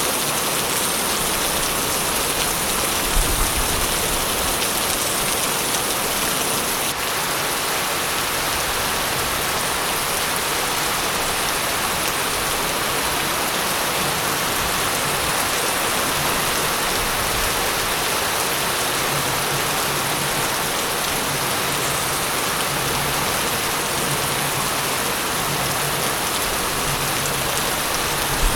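Steady heavy rain falling, an even hiss of raindrops on surfaces. A brief low thud about three seconds in.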